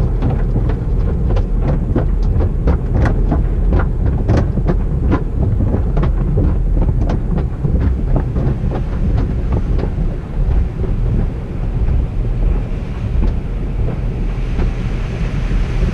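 Automatic car wash tunnel heard from inside the car: a steady low rumble with a fast, irregular run of slaps and knocks against the body, thinning out about ten seconds in, while a spray hiss builds near the end.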